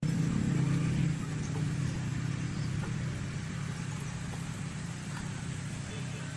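An engine running steadily with a low hum, loudest in the first second and then settling slightly.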